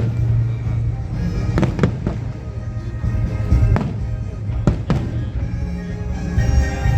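Fireworks exploding, a handful of sharp bangs a second or so apart, over music played loudly through public-address speakers.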